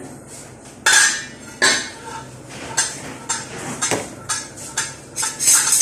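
Kitchen cookware and utensils clattering: a series of sharp metallic knocks and clinks, the loudest about a second in and near the end.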